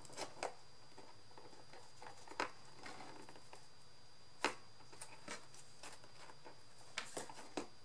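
Scattered light clicks and taps of small craft pieces and tools being handled on a work surface, about seven in all, the sharpest about four and a half seconds in. A faint steady high-pitched whine runs underneath.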